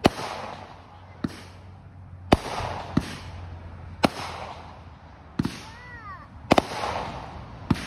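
Consumer firework cake firing shot after shot, with sharp bangs about once a second, each followed by a brief hissing crackle of the bursting stars.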